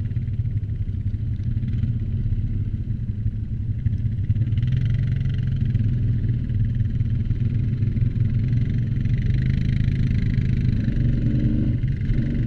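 ATV engine running steadily while riding, a low drone with no sharp revving. A hiss joins higher up about four and a half seconds in.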